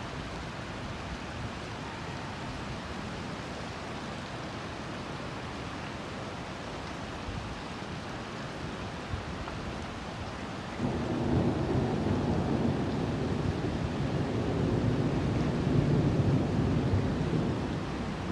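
Steady hiss of a rainstorm, then about eleven seconds in a long, low rumble of thunder that rolls on for about seven seconds.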